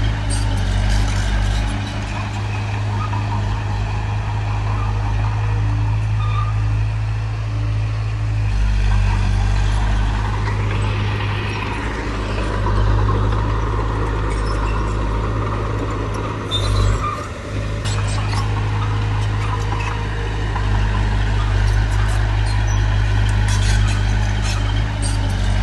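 Heavy diesel earthmoving machinery running steadily with a deep engine drone. It briefly dips about two-thirds of the way through, and there are light rattling clicks near the start and near the end.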